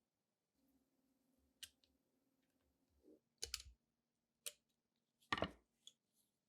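Small metal parts of a Walther pistol being handled and fitted: a few separate faint clicks and knocks, the loudest about five seconds in.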